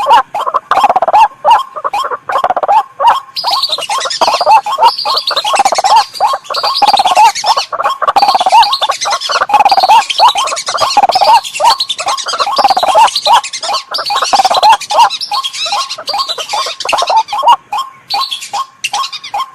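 Bird-lure recording of white-breasted waterhen calls, a loud, rapid, endlessly repeated croaking, joined about three seconds in by a higher chattering chorus of whistling-duck whistles layered over it.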